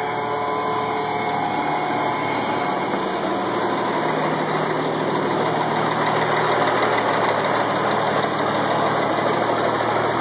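Multifuel turbo-diesel engine of a 1986 AM General M35A2C army truck idling steadily, still cold shortly after a cold start and warming up.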